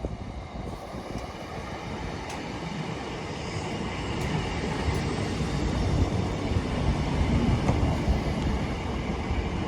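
Class 318 electric multiple unit running into the station: a steady rumble of wheels and traction that grows slowly louder.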